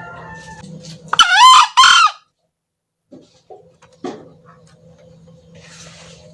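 A male green junglefowl crows once about a second in: a short, loud call in two parts, the second shorter than the first. A few faint clicks follow.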